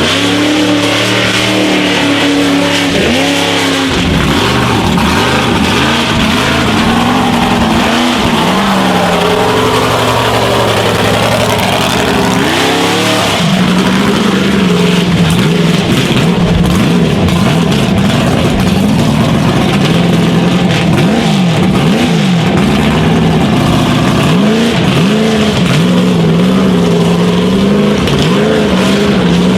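Classic Chevy mega truck's engine running hard at high revs, its pitch surging up and down again and again as the throttle is worked.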